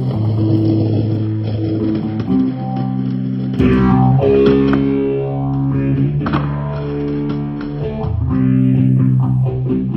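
Background guitar music: plucked guitar notes and chords, held and changing every second or so.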